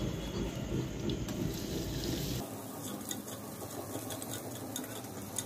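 Ginger-garlic paste frying in hot oil, sizzling as it is stirred with a spoon. About two seconds in, a low rumble under it cuts off suddenly, and light scraping clicks follow.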